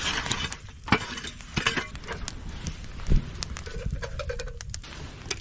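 Irregular knocks, clicks and rustling as camp cooking gear is handled.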